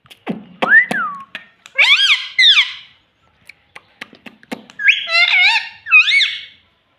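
Pet parrot calling in two loud runs of high, sliding squawk-like notes, the first right at the start and the second about five seconds in, with a few sharp clicks in between.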